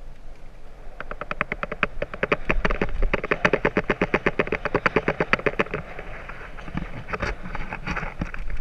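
Bicycle freewheel ratcheting while coasting: a rapid, even clicking, about ten clicks a second, that starts about a second in and stops after about five seconds, followed by rougher riding noise.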